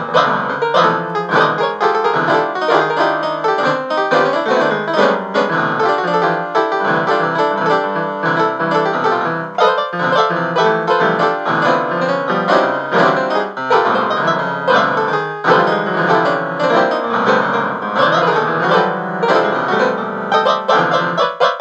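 Background music: piano playing continuously, a steady run of notes.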